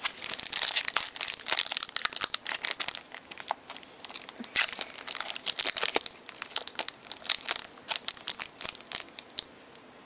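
Plastic trading-card pack wrapper crinkling and tearing as packs are opened by hand, a dense run of irregular crackles that thins out near the end.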